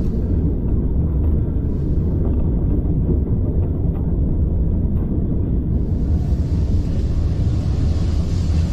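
Railway carriage running along the line, a steady low rumble, with a high hiss that swells from about six seconds in.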